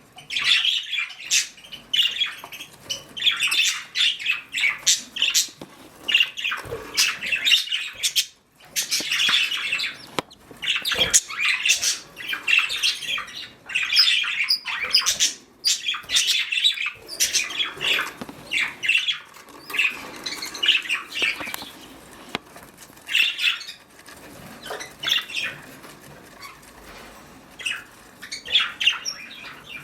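Budgerigars chattering, a rapid run of short chirps and squawks with only a brief lull about eight seconds in.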